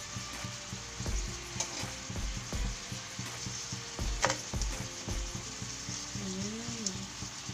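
Chicken livers sizzling in a stainless steel frying pan as they are stirred with a spatula, their released liquid cooking off. A few sharp knocks of the spatula against the pan cut through the sizzle, the loudest about four seconds in.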